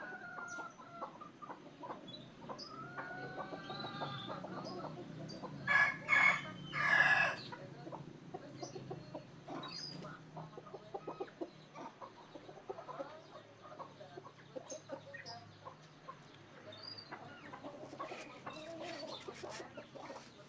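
Chickens clucking on and off, with one loud crow-like call about six seconds in.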